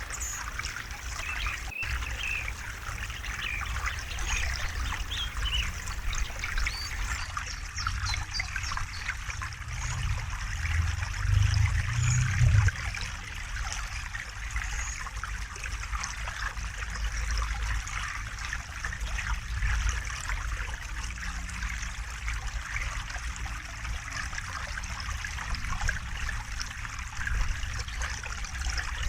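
River water trickling and babbling steadily, with a low rumble that swells briefly near the middle.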